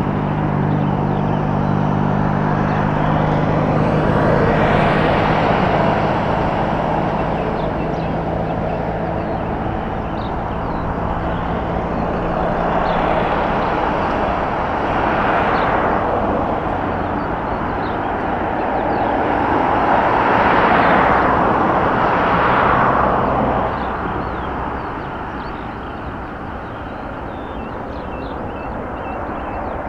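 Boeing 777 airliner on the ground after touchdown: a steady rushing noise of engines and air that swells three times, then eases off. A low steady hum under it fades out about halfway through.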